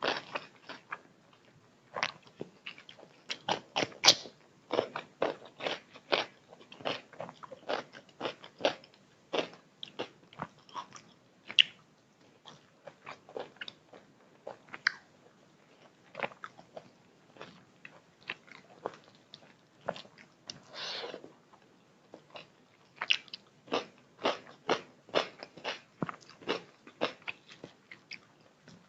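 A person chewing and biting food, with quick runs of short, clicky mouth sounds broken by brief pauses.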